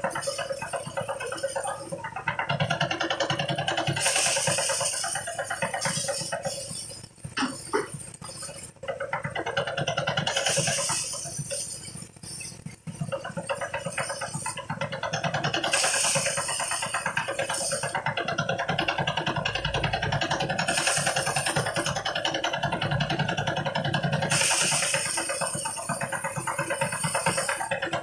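Engine-driven rice threshing machine running steadily, its noise swelling into a louder hiss in recurring surges every few seconds.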